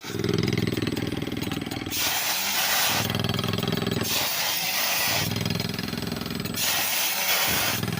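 A machine's deep rhythmic chugging alternates with a loud hissing rush, about a second or so each, back and forth three times.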